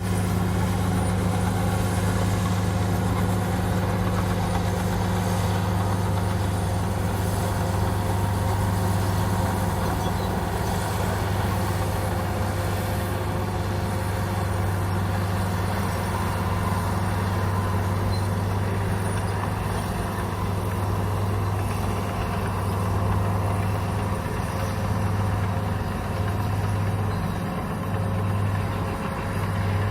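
Komatsu bulldozer's diesel engine running steadily with a low drone, which turns uneven and pulsing near the end.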